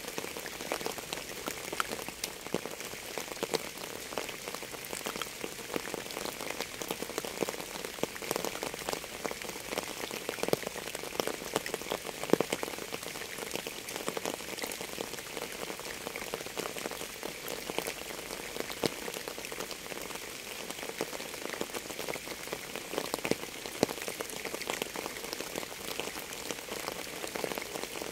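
Steady rain falling, with many individual drops striking a surface close by as a dense stream of clicks; a few louder drips stand out now and then.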